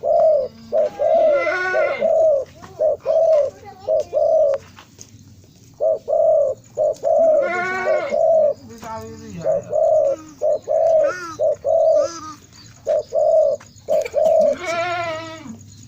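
Spotted dove (derkuku) cooing in repeated runs of low, evenly spaced coos, with short breaks between phrases about five seconds in and again about twelve seconds in.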